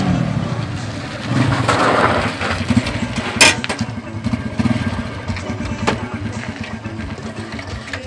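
Motorcycle engine running, its rapid firing pulses steady throughout, louder for a moment about one and a half seconds in. A single sharp click about three and a half seconds in.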